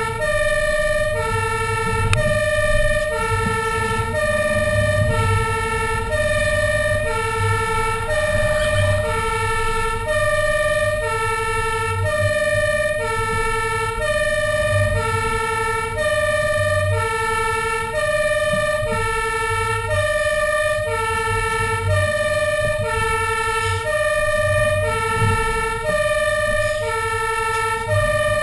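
Fire engine's two-tone hi-lo siren, alternating steadily between a lower and a higher pitch about once a second, over the truck's diesel engine rumble.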